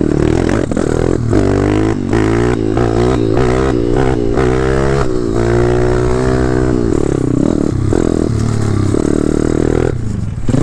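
Pit bike's 190cc single-cylinder four-stroke engine running under riding load, its pitch rising and falling again and again as the throttle is worked, with brief breaks in the sound in the first half.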